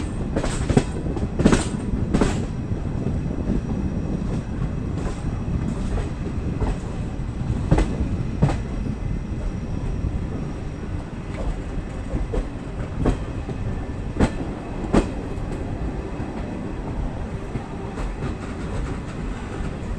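Passenger train running slowly downhill, heard from aboard: a steady low rumble of the coaches with irregular sharp clacks of the wheels over rail joints.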